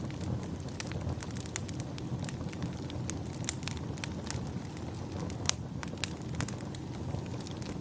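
Wood fire burning in a fireplace: a steady low rumble with many sharp pops and crackles at irregular intervals, one louder pop a little past the middle.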